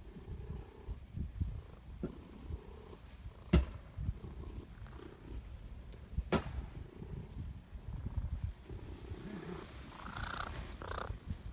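Domestic cat purring close by, a steady low fluttering rumble. Two sharp clicks cut through it, one about three and a half seconds in and another about six seconds in.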